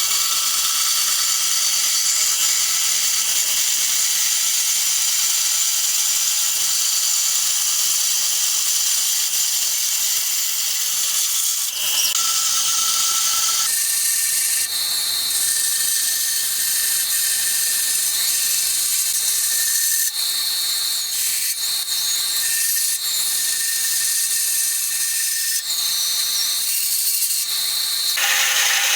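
A power tool running steadily with a high-pitched hissing whine; its tone shifts about halfway through.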